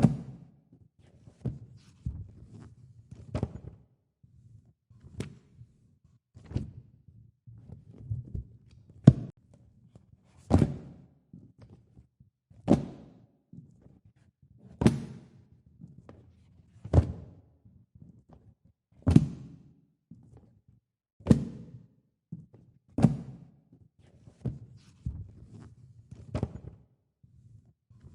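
Paper pages of a printed coloring book being turned one at a time, each page landing with a short slap-like thud about every two seconds, with soft handling between turns.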